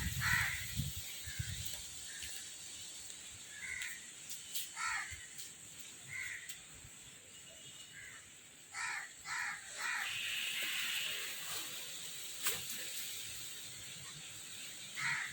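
Crows cawing in the background: short, separate caws scattered through, some in quick runs of two or three.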